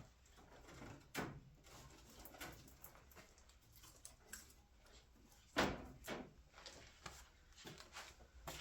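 Scattered light clicks and knocks of a new brake line being handled and fitted into place along the truck's frame, with one louder knock about five and a half seconds in.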